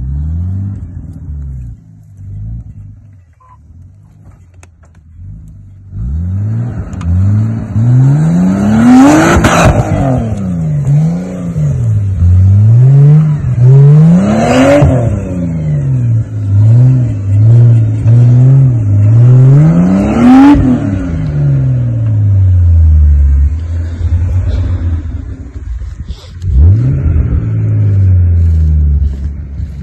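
Nissan Patrol's swapped RB25DET Neo turbocharged straight-six revving hard again and again under off-road driving. It runs low for the first few seconds, then the pitch climbs and falls repeatedly, with three big climbs each ending in a short sharp noise at the top.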